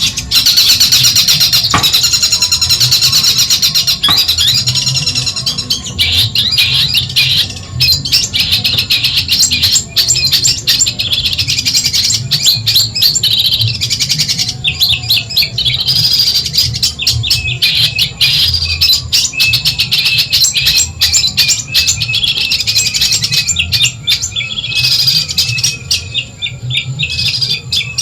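Long-tailed shrike (cendet) singing a rapid, almost unbroken stream of high chattering chirps and whistles, over a low steady hum.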